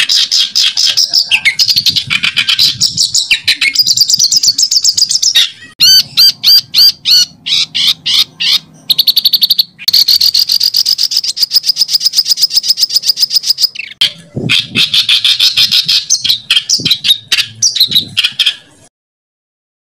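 Songbird song of dense, fast rolling trills and harsh rasping phrases, the kind used as a masteran track to teach competition birds. It breaks briefly three times and stops abruptly about a second before the end.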